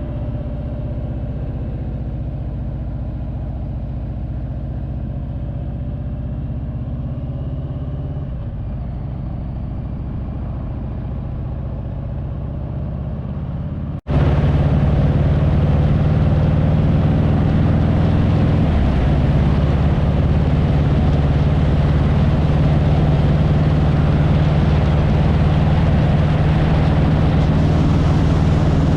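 Motorcycle engine running at a steady cruise with wind and road noise. About halfway through there is an abrupt cut to a louder stretch with much more wind rush.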